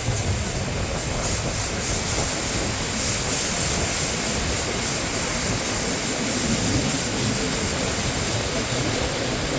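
Bernina line train running along the track: a steady rumble and rushing noise of wheels and carriages in motion.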